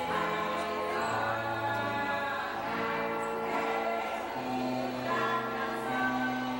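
A choir singing a hymn in sustained, slow-changing chords.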